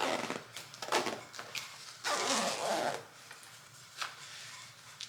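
Motorcycle jacket's zipper being pulled in short strokes, the longest a little after two seconds in, with a few light clicks.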